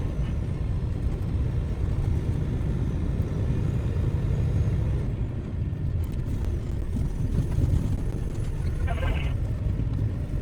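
Steady low drone of a dump truck's diesel engine and road noise, heard inside the cab. A short buzz sounds briefly about nine seconds in.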